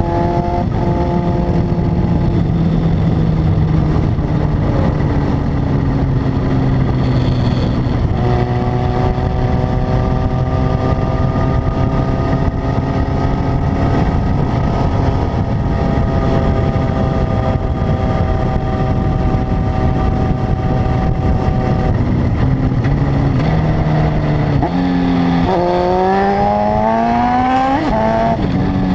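Honda CB900F (919) inline-four motorcycle engine and exhaust under way, holding a steady note that slowly sinks in pitch, with a step up about a third of the way through. Near the end it revs up hard, the pitch climbing in quick steps through gear changes.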